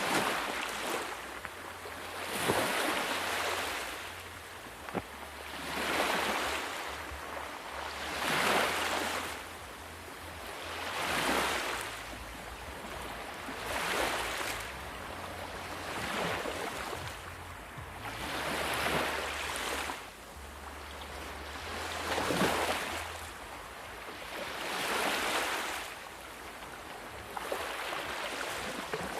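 Ocean surf: waves breaking and washing in, each one swelling to a hiss and fading, about one every two and a half to three seconds.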